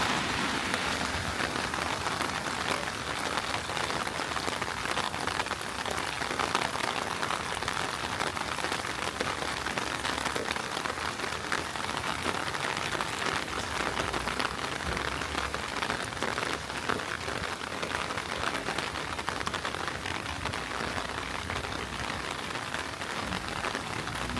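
Heavy rain falling steadily: a dense, even hiss with many small drop impacts and no break.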